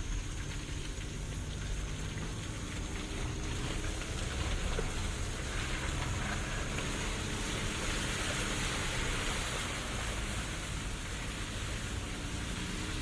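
Jeep Renegade driving off-road: the engine hums low under a steady hiss of tyres and body noise, which swells about halfway through.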